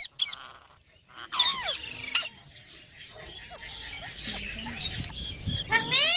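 Green parrot giving short, harsh squawking calls that rise in pitch: one at the start, two more about a second and a half in, and another near the end.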